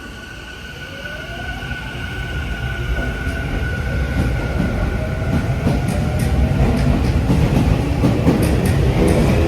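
Tokyu 5050 series electric train accelerating, its renewed inverter-driven traction motors giving several whining tones that glide upward in pitch. Rumble and wheel-on-rail noise grow steadily louder with a little clickety-clack over the joints.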